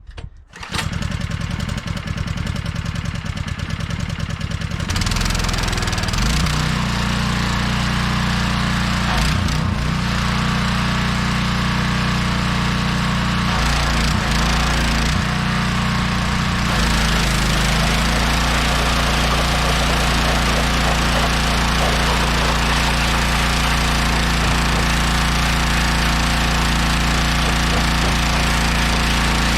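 Small engine of a gas pressure washer starting up about half a second in. It runs unevenly at first, then settles louder into a steady run. Its note shifts a few times before holding steady.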